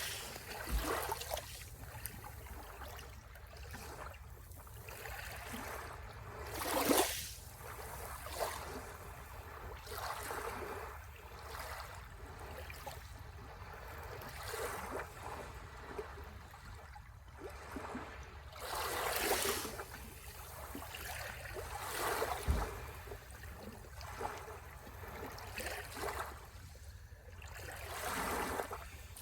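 Sea waves washing onto the shore, a continuous wash of water with larger surges breaking about seven, nineteen and twenty-eight seconds in, and smaller ones between.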